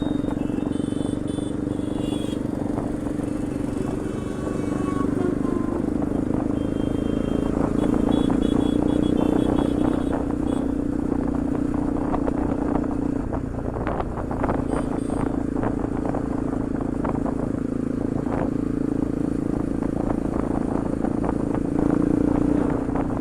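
Bajaj Pulsar NS200's single-cylinder engine running through an aftermarket Akrapovic exhaust at a steady riding pace. The note holds level, dips briefly about halfway through, then picks up again.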